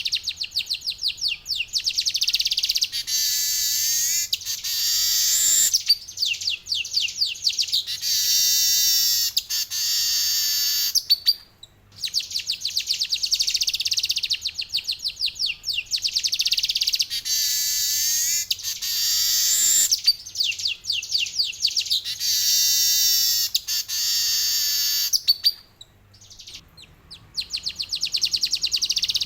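Male weaver bird (manyar) singing a long rolling song of fast, high chattering notes, in long phrases broken by two short pauses.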